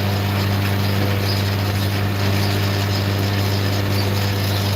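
A motor running with a steady low hum and no change in speed.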